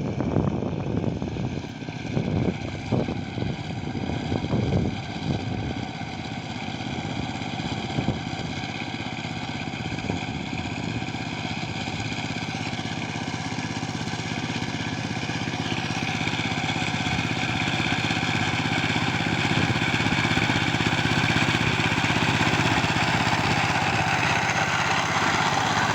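A Saifeng 12-horsepower power tiller's single-cylinder diesel engine runs steadily under load as its 18-blade rotary tiller works paddy stubble. There are irregular knocks in the first few seconds, and the engine grows gradually louder through the second half.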